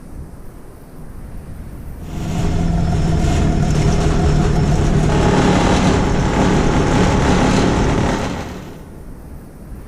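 A motor engine passing close by: it comes up about two seconds in, runs loud and steady for about six seconds, then fades away.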